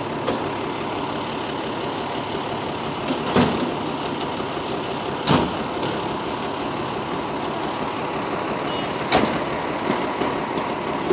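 Fire engine running with steady engine and street noise, with three short sharp sounds, about three, five and nine seconds in.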